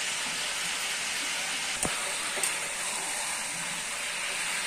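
Raw chicken pieces frying in hot oil with onions in a steel kadai: a steady sizzling hiss, with a sharp click of the stirring spoon against the pan about two seconds in.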